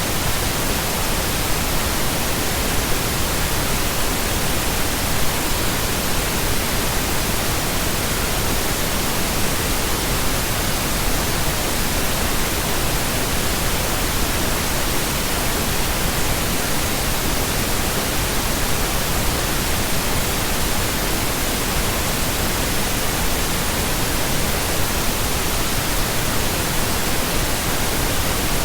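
Steady, unbroken pink noise: an even hiss spread across all pitches, with no changes or interruptions.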